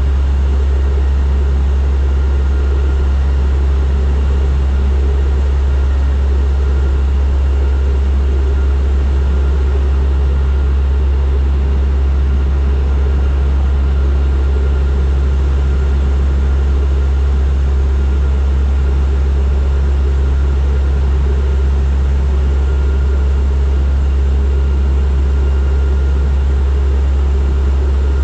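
Turboprop airliner's engines and propellers droning steadily, heard from inside the cabin: a strong, even low hum with a faint steady whine above it.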